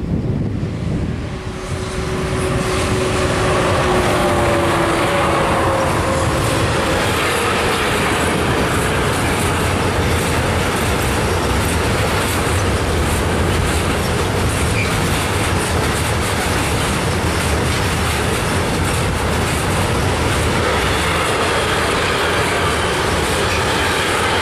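Freight train running through at speed, hauled by a pair of E412 electric locomotives. As the locomotives pass, two steady tones in their sound drop slightly in pitch over the first few seconds. Then a long string of intermodal wagons carrying lorry trailers goes by with a steady noise and a rapid clatter of wheels on the rails.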